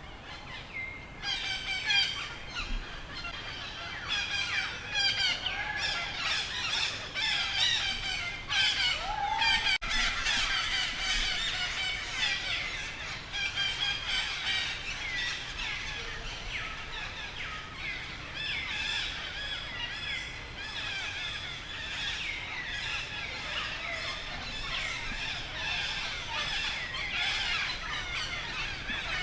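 Many small birds chirping together in a dense, overlapping chorus of quick high calls, busiest in the first half.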